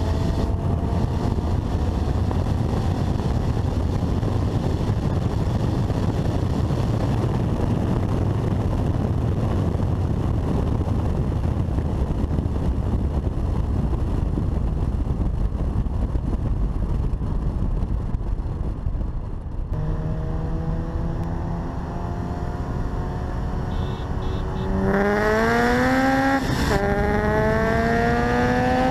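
Honda Civic Si four-cylinder engine and wind rushing at speed. About two-thirds of the way through it settles to a steady drone, then revs up hard, shifts once and climbs again in the next gear: a full-throttle roll-race pull.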